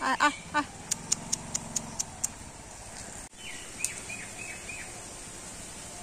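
Small birds calling outdoors: a few short, falling calls at the very start, then a quick run of seven high chips, and about four seconds in, five short downward-sweeping chirps.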